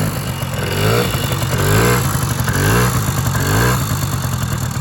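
1982 Honda Melody's 50cc two-stroke single-cylinder engine, freshly started, revved in four quick throttle blips about a second apart, each rising in pitch and falling back toward idle.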